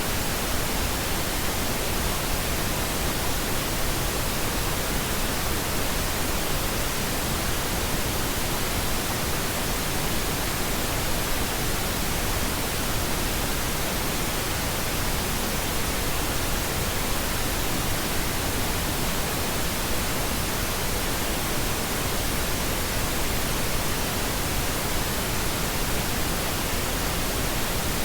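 Steady, unchanging pink noise: an even hiss spread across all pitches, with no tones or breaks.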